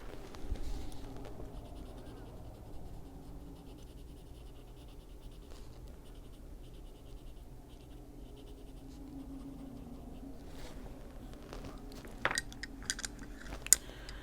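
Prismacolor coloured pencil scratching softly on paper in quick, small strokes, with a few sharp taps near the end.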